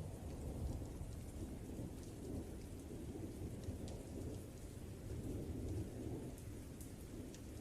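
Thunderstorm ambience: a low, rolling rumble of thunder over rain, with scattered small ticks of drops.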